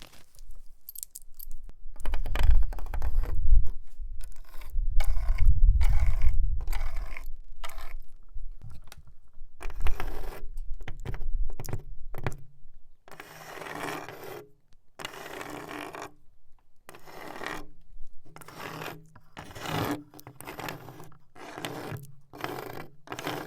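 A nail worn on a fingertip scraping across a wooden wall in a series of separate strokes, each under a second long with short gaps between. Faint ticking comes first, and the strokes are heaviest near the start.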